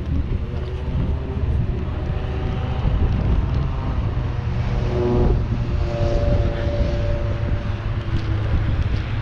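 Motor vehicle traffic close by: an engine's low rumble with several whining tones that shift in pitch, most around the middle.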